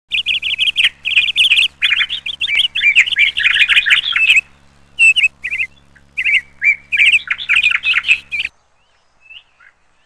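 Small birds chirping in quick, dense runs of high notes, over a faint steady low hum. Both stop abruptly about eight and a half seconds in, leaving only a few faint chirps.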